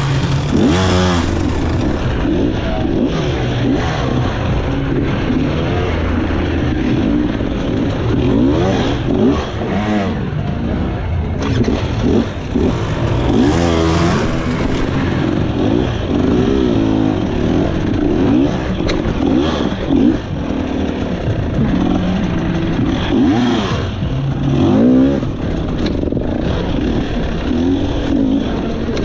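Two-stroke dirt bike engine revving up and down again and again in short bursts of throttle.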